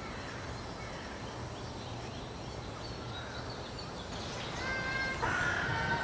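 Birds calling over a steady outdoor background noise, with clearer, held call notes coming in and getting louder over the last second and a half.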